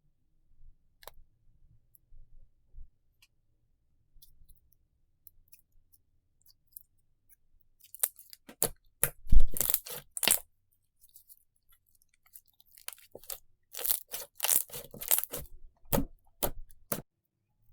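Slime being squeezed and pressed by hand, giving spells of crackling, crunchy pops: a short burst about halfway through and a longer spell near the end.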